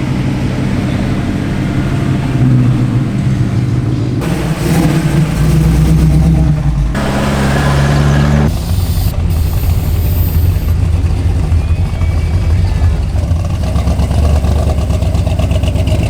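Car engine running loudly, idling with its pitch stepping up and down abruptly a few times.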